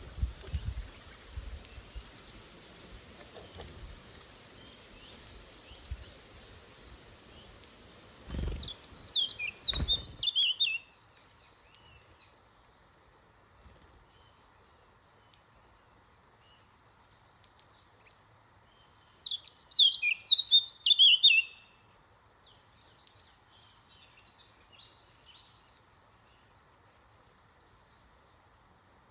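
A chaffinch singing twice: two short, loud phrases of quick notes running downward, about ten seconds apart, with faint chirps of other small birds after the second. A low rumble of background noise stops about ten seconds in.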